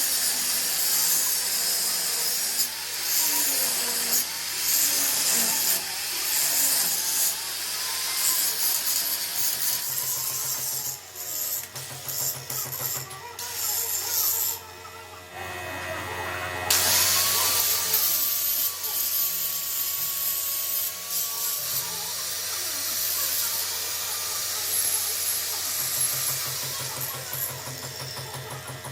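Tool noise from metal repair work, changing abruptly several times as different jobs or shots follow one another.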